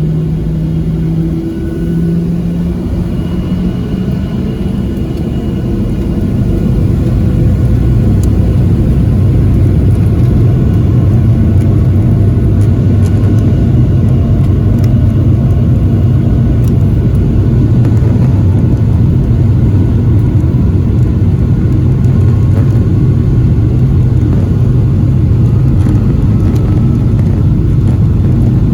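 Jet airliner engines spooling up to takeoff power: a low rumble with a few steady low tones at first, growing louder over the first several seconds, then holding loud and steady through the takeoff roll.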